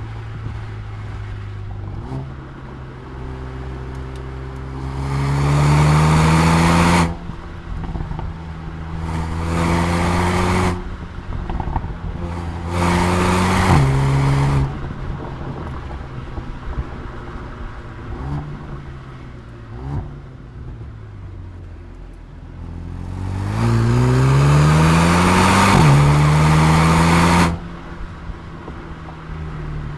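Mercedes-AMG A35's turbocharged 2.0-litre four-cylinder engine and exhaust under hard acceleration. There are four loud pulls in which the pitch climbs through the revs and drops back sharply at quick gear changes, each pull cutting off abruptly. Between them the engine note is steadier and quieter.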